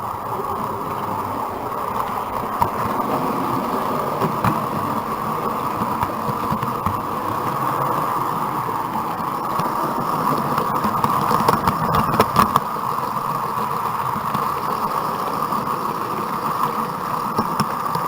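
00 gauge model train running along the track, heard from a camera riding on the train: a steady whirring of motor and wheels, with occasional clicks as the wheels cross rail joints.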